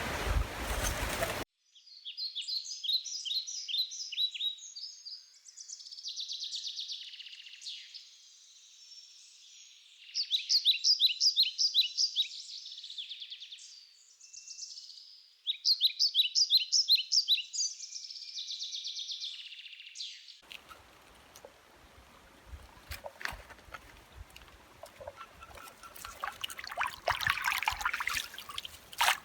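A songbird singing in repeated, rapid trilled phrases separated by short pauses. About two-thirds of the way through it gives way to a stream trickling, with scattered clicks and rustles.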